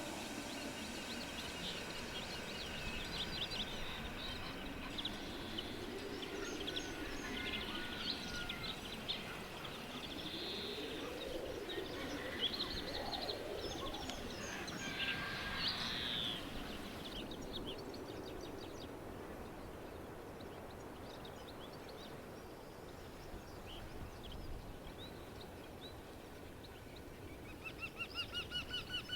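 Bluethroat singing a varied song of quick chirps, trills and clicks. Near the end a wryneck gives a run of about eight evenly spaced, rising 'quee' notes.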